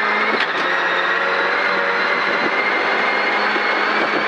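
Rally car engine running hard at high revs down a fast straight, heard from inside the car, a steady engine note over road and tyre noise with a few short knocks.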